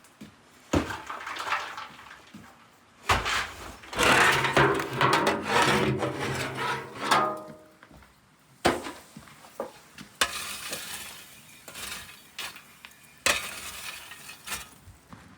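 Kitchen dishes and utensils being handled: knocks, clinks and scraping, with a louder, busier stretch of clatter in the middle.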